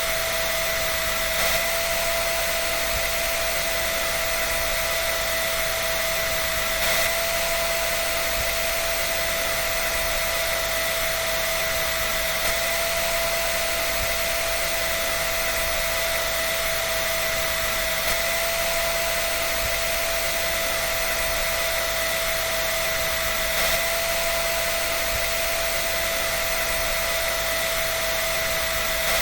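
Hair dryer running steadily: an even rush of blown air with a constant motor whine, and a few faint ticks.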